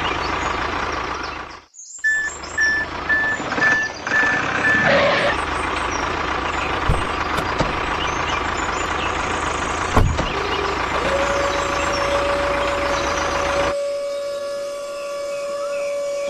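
Vehicle engine noise with a run of evenly spaced reversing beeps about two seconds in, lasting about three seconds; a steady tone sets in past the middle and holds to the end.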